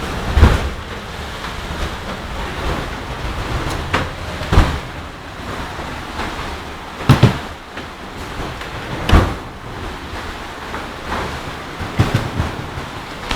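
Strong wind rushing steadily and buffeting the microphone, with heavy low gusts about every two to three seconds.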